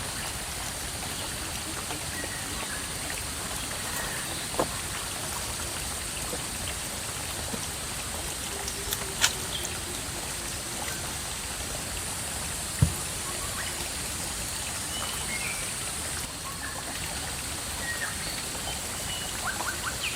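Steady rushing water noise, like rain or a flowing stream, with three short sharp knocks, the last and loudest a little past halfway.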